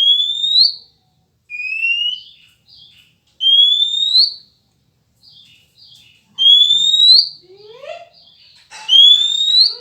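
Five loud rising whistled notes, each under a second, repeated every couple of seconds: a lure whistle to set off a male oriental magpie-robin (kacer). Softer short bird chirps sound between them.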